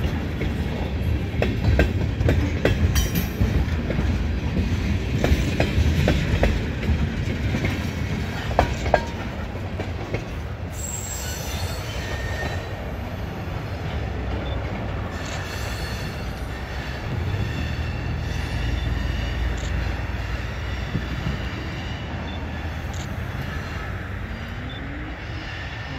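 Freight train of tank cars rolling past, steel wheels clicking and clattering over the rail joints, then a high wheel squeal as the train moves off and the sound gradually fades.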